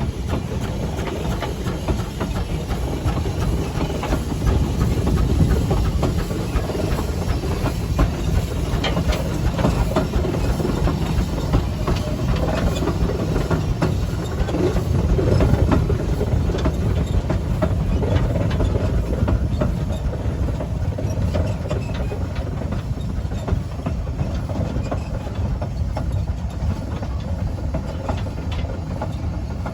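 Case steam traction engine driving past, running steadily with steam hiss and a clattering mechanical beat, loudest about halfway through and easing off a little toward the end.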